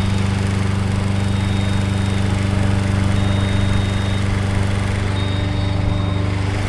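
An engine running steadily at a constant speed. A high thin tone, about a second long, sounds over it about every two seconds.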